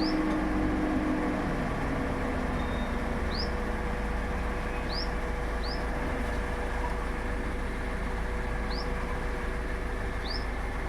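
Steady running hum from a Toyota Innova Hycross with its air conditioning on. Some lower tones slide down and fade out in the first couple of seconds, and no clear knock is heard. A small bird chirps throughout, short rising chirps every second or two.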